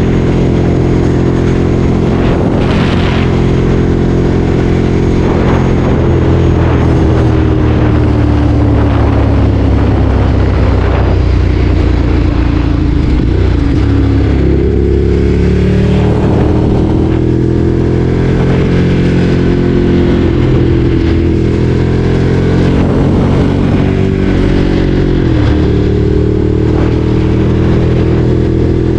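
Ducati Streetfighter 848's L-twin engine running as the bike rides, its pitch sinking slowly for several seconds, climbing again just past the middle and dipping briefly near the end.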